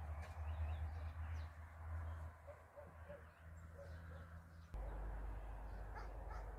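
Faint bird calls and short chirps over a steady low rumble.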